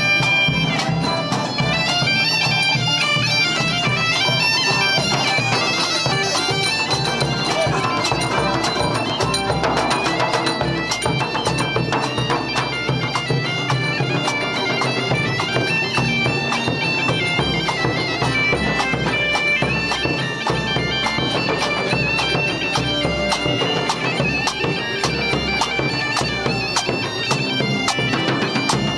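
Bagpipes playing a lively tune over a steady drone.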